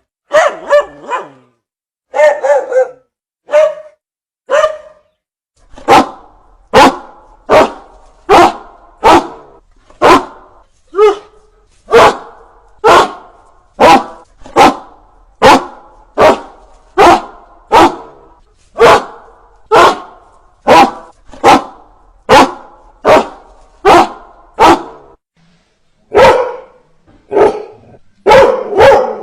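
Dog barking over and over in loud single barks, settling into a steady run of about one bark a second, with a few quicker clusters at the start and near the end.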